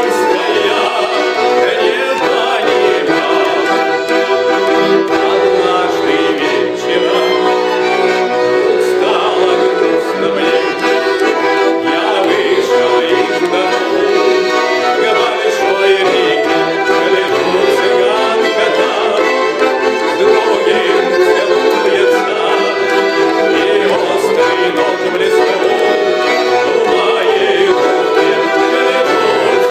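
Instrumental music played on garmon and bayan (Russian button accordions), with a violin, in the passage between sung verses of a song: a steady ensemble of held chords and melody.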